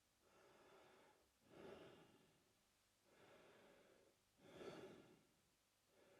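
A man breathing slowly through his mouth, a soft airy in-and-out. There are two full breaths, each a longer, softer draw followed by a shorter, louder puff, about three seconds apart.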